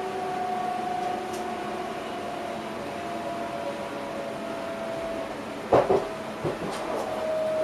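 Electric train heard from inside the driver's cab, its drive making a steady whine that falls slowly in pitch over a rumbling running noise. A loud knock comes near the end, followed by a few lighter clicks from the wheels and track.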